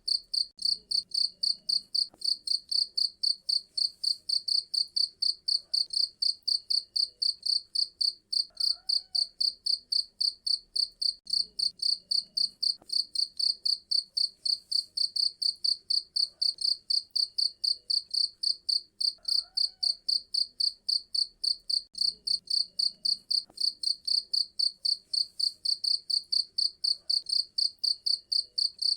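Cricket chirping steadily and loudly: a high-pitched, evenly spaced chirp repeating about four times a second.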